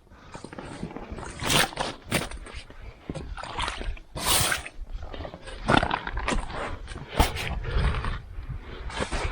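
Snow and ice being scraped and broken away by hand, with irregular scraping and crunching strokes.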